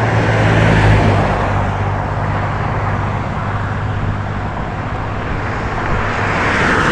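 Road traffic passing close by: a vehicle goes past with engine hum and tyre noise about a second in, and another comes up loud near the end.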